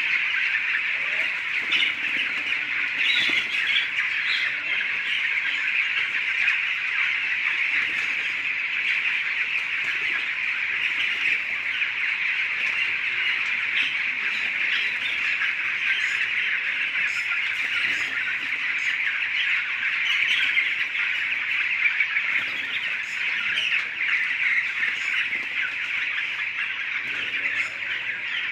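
A large flock of poultry in a farm shed calling all at once: a dense, steady chorus of high peeping and squawking with no pauses.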